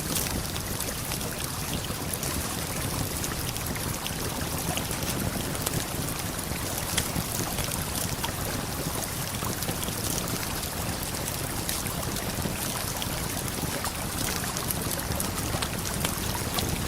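Waterfall and river water flowing steadily, with a campfire crackling over it in scattered sharp pops.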